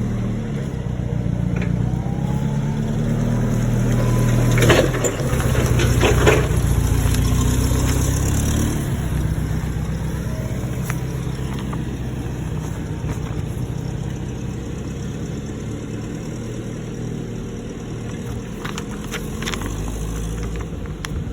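A heavy engine running, working harder for a few seconds and then easing back to a steady run. Two sharp knocks cut through about five and six seconds in.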